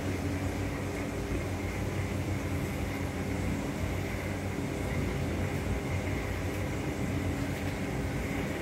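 Steady low mechanical hum that runs on without a break.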